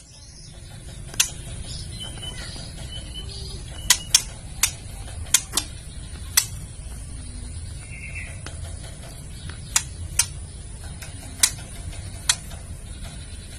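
Female white-rumped shama giving its kretekan call, the harsh ticking call used to rouse a male: about a dozen sharp, dry clicks at irregular intervals, over a low steady hum.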